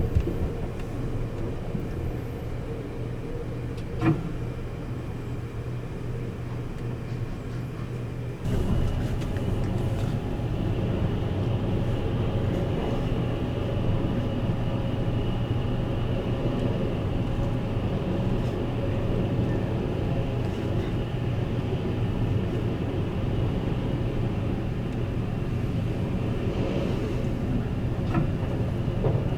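Running noise of the 285-series Sunrise Express sleeper train heard from on board: a steady low rumble of wheels and motors. There is a single click about four seconds in, and the rumble gets louder about eight seconds in, then stays steady.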